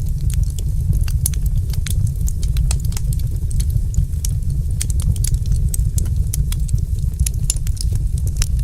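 Wood fire in a fireplace crackling, with frequent small sharp pops and snaps at irregular intervals over a steady deep rumble.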